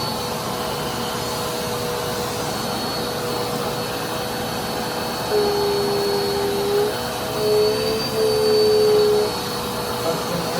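Dirt Devil Endura Compact bagless upright vacuum cleaner running with a steady motor whine. A lower, louder tone comes in a few times in the second half.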